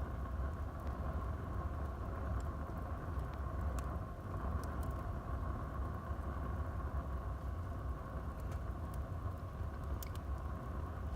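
Wood fire burning in a fireplace: a steady low rumble of the flames with scattered sharp crackles and pops from the burning wood, several of them a second or so apart and a close pair near the end.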